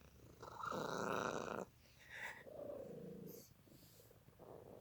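Domestic cat purring, with a short falling meow about halfway through.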